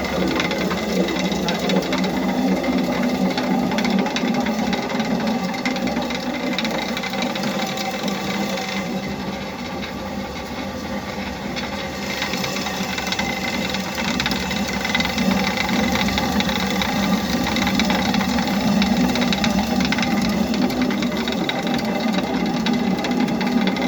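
An engine running steadily with a fast mechanical rattle, dipping slightly in level midway and then returning.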